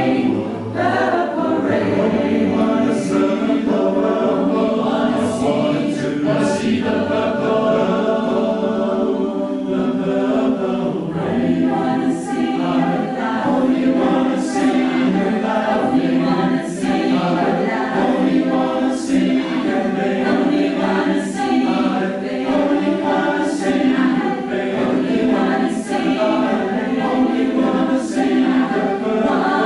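A choir singing sustained chords with little or no accompaniment, with a soft regular percussive tick about every two seconds through the second half.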